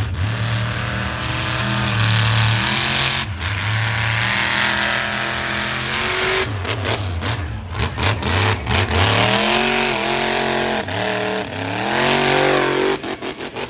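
Monster truck engine revving hard, its pitch climbing and dropping several times as the throttle is opened and lifted. There are quick choppy throttle stabs in the middle and just before it cuts off near the end.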